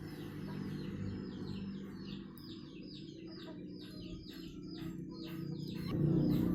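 Small birds chirping: a quick, continuous run of short high notes that fall in pitch, several a second, over a low steady hum. A louder, lower sound comes in near the end.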